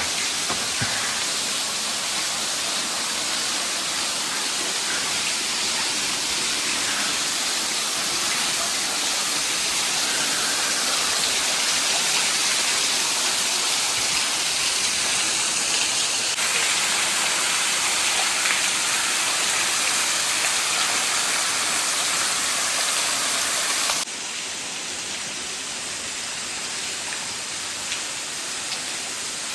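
Steady rushing and splashing of a small waterfall falling into a rock cave. The sound changes suddenly about 16 seconds in and becomes quieter about 24 seconds in.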